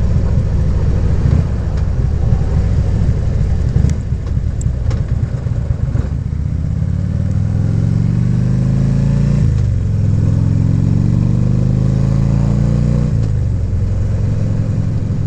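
Harley-Davidson V-twin motorcycle engine running under way, then accelerating: its pitch rises twice and drops sharply at each upshift, about two-thirds of the way in and again near the end.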